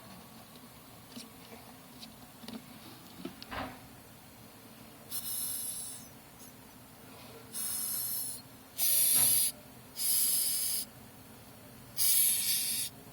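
Madagascar hissing cockroaches hissing by forcing air out through a pair of breathing spiracles: five short, sharp hisses, each under a second, starting about five seconds in, the first one fainter. Before them come a few faint taps and ticks.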